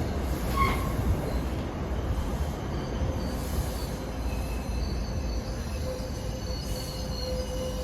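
A train running on the rails with a steady low rumble. Faint, thin, high wheel-squeal tones come in from about three seconds in.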